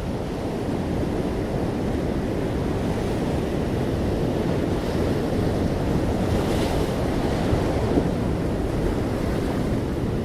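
Sea waves breaking gently on a shore in a steady low wash, with a brighter hiss of surf about two-thirds of the way through.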